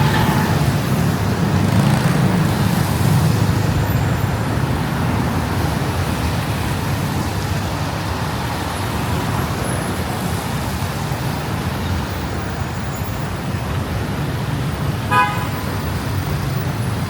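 Road traffic running steadily with a low rumble, and a short car horn toot near the end.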